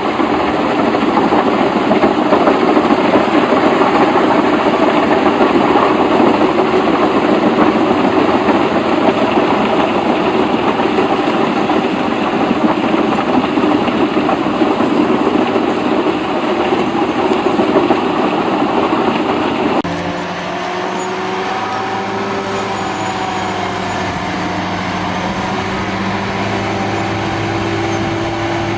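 Heavy machinery running: a loud, rough engine-and-machine noise, then an abrupt cut about two-thirds of the way in to a different engine running with a steadier, lower drone.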